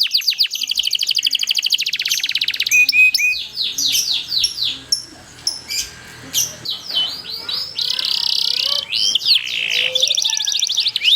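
Domestic canary singing a long, continuous song. It opens with a very fast rolling trill of repeated notes, moves into varied down-slurred whistles and a buzzy roll, and near the end breaks into a run of repeated falling notes.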